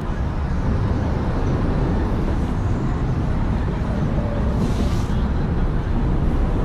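Steady low rumble of road traffic on a city bridge, with a brief hiss about four and a half seconds in.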